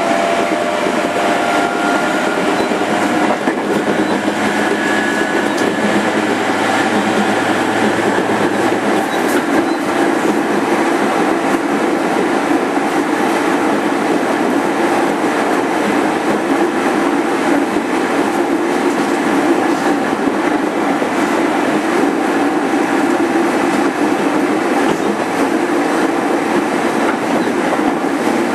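JR 205-5000 series electric train heard from inside motor car MoHa 205-5022, running steadily with continuous wheel-and-rail rolling noise. A few faint steady whines show in the first several seconds, then fade into the noise.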